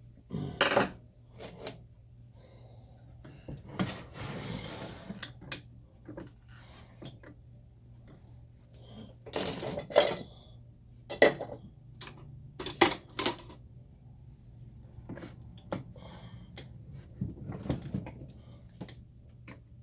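Hand tools and metal parts clanking and clinking against the steel chassis of a Leslie 122 amplifier being worked on, in irregular knocks with a brief scraping stretch about four seconds in and a cluster of louder clanks about ten to thirteen seconds in. A faint steady hum runs underneath.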